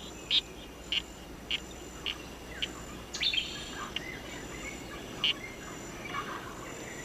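Poison arrow frog calling: short, high chirps repeated evenly, a little under two a second, then more scattered. A steady high insect trill runs behind the chirps.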